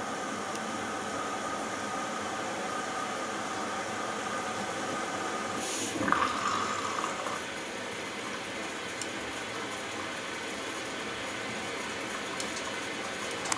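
Hoover Dynamic Next front-loading washing machine filling at the start of its cycle: a steady rush of water through the inlet valve and detergent drawer. There is a clunk about six seconds in, with a brief tone after it.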